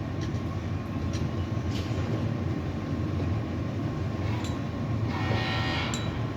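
Steady low mechanical rumble inside a tower crane's operator cab, with a faint steady tone; about five seconds in a brief higher buzzing whine joins it for roughly a second.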